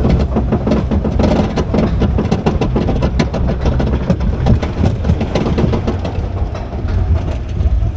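Steel roller coaster train running along its track: a dense, continuous clatter of many quick clicks over a heavy low rumble.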